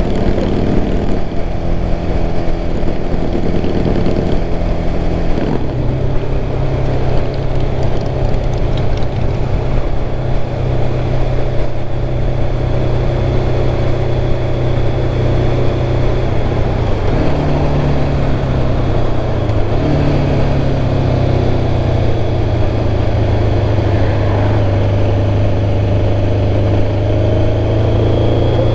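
1996 Kawasaki ZX-11's inline-four engine running as the bike is ridden, heard from the rider's seat. The engine note is steady and drops to a lower pitch about five seconds in, with small shifts again a little past the middle.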